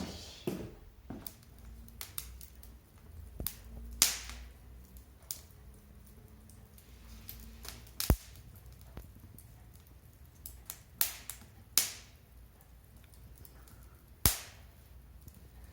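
Firewood burning and crackling, with irregular sharp pops; four or five louder pops stand out, a few seconds apart.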